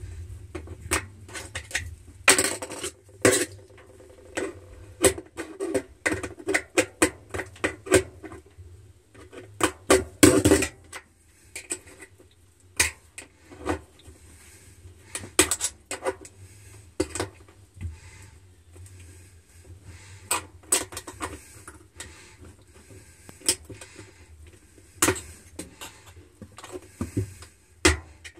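Metal hand tools clicking, tapping and scraping irregularly against the spinning bottom and tub wall of an LG Wave Force washer while prying at a coin wedged in the groove between them. The clatter is densest about two to three seconds in and again around ten seconds in.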